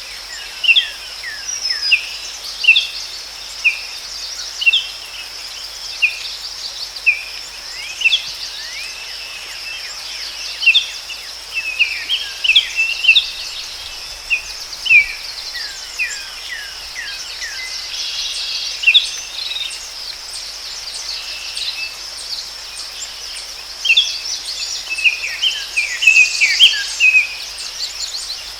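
Forest ambience: birds give many short, quick, mostly falling chirps again and again, in busier bursts at times, over a steady high-pitched insect drone.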